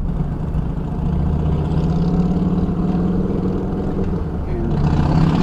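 Heavy truck engine running steadily with a low drone.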